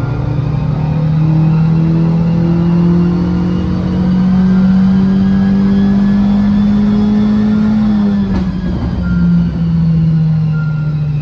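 The Fiat 500 Abarth's 1.4 turbo four-cylinder engine pulls under load on a chassis dyno, its pitch rising steadily as the revs climb. About eight seconds in, the throttle lifts and the pitch drops, with a brief sharp noise, as the engine and dyno rollers wind down.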